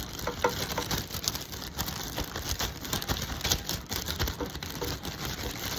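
Raw egg being stirred briskly in a plastic zipper bag with a utensil: a fast, irregular run of small clicks and taps with plastic rustle.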